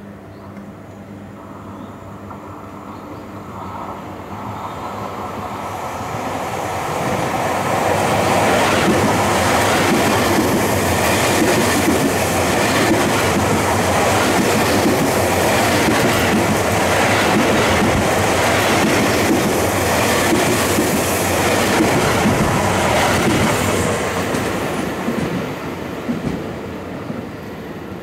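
Electric commuter train approaching, passing close by with loud wheel-on-rail noise and clatter, then moving away. The sound builds over the first several seconds, stays loud for a long stretch as the cars go by, and fades near the end.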